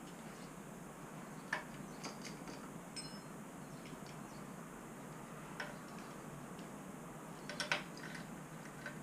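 Scattered light clicks and taps of small metal parts and hand tools being handled while an engine's cylinder is being refitted. There is a quick cluster of sharper knocks near the end.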